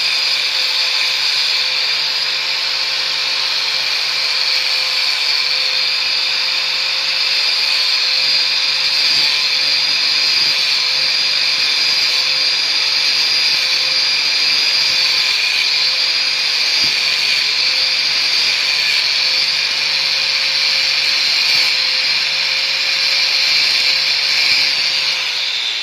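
Bosch GWS 6-100 4-inch angle grinder running steadily with its abrasive disc against steel, a continuous high grinding hiss over a steady motor whine. It eases off slightly near the end.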